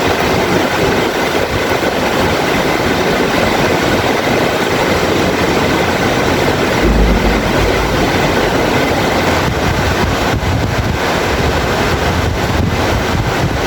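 Heavy rain falling steadily, with a low rumble of thunder about seven seconds in.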